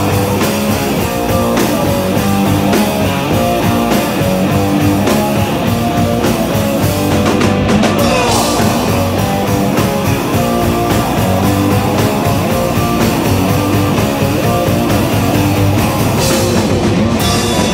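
Punk rock band playing live and loud: distorted electric guitars, bass and a drum kit.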